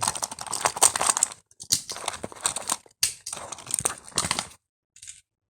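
Die-cast toy cars clattering and rattling against hard plastic as they are flushed through a toy toilet playset, in three dense bursts of clicks that stop suddenly near the end.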